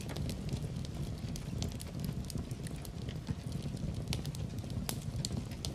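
Wood fire burning in a fireplace: a steady low rumble of flames with irregular sharp crackles and pops, fewer of them in the middle of the stretch.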